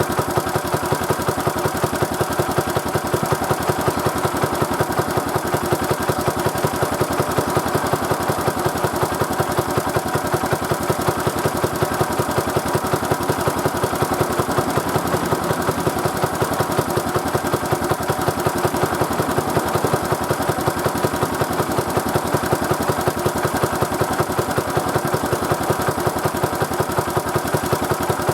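Old Kubota LK50 air-cooled general-purpose engine running steadily, with an even, rapid firing beat that holds a constant speed.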